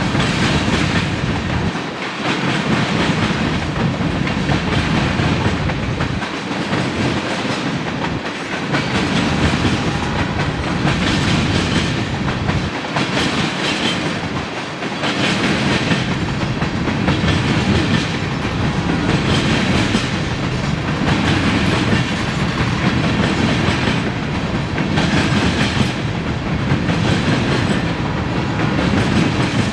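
A train's cars rolling past steadily, the wheels clicking and clacking over the rail joints in a repeating rhythm.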